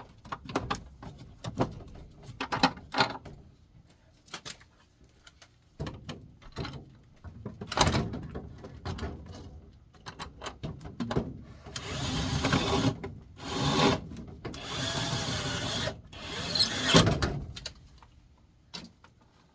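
Clicks and knocks of screws and metal parts being handled, then a power drill/driver running in several short spurts about two-thirds of the way through, driving screws while the furnace blower motor is being fastened back in.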